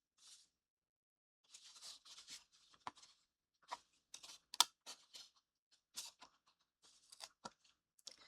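Hands handling miniature kit parts and the parts sheet: scattered soft rustling and small sharp clicks, the loudest click a little past the middle.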